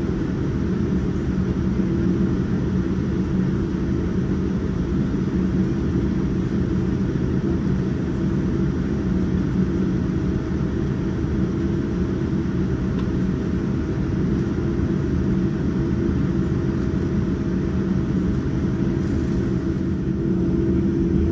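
Steady cabin rumble of a Boeing 787-9 airliner with its engines running, heard from a window seat. It is a low, even roar with a few constant hum tones and no change in level.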